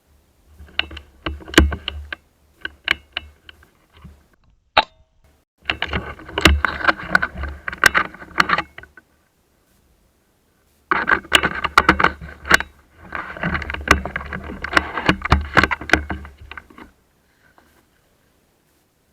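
Rustling and clicking of a player's clothing and gear moving against the microphone, in bursts of a few seconds separated by quiet gaps.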